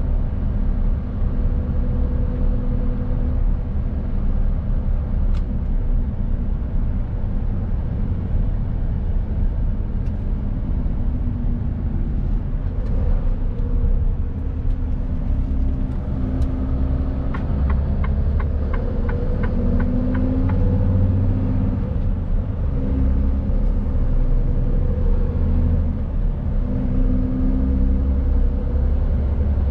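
Mercedes-Benz Actros truck's diesel engine running on the move, a steady low rumble whose pitch shifts a little now and then. A few seconds past the middle comes a short run of regular ticks, about three a second.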